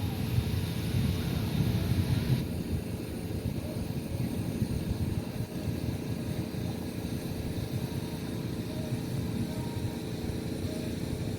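Motorboat engine running steadily, a low drone. A hissing layer over it stops suddenly about two seconds in.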